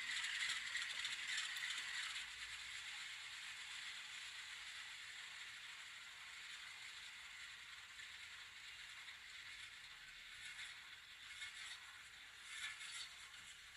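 N scale model train running on the layout track: a light, steady rattle of small wheels and couplers on rail that fades over the first few seconds, then grows a little and flutters near the end.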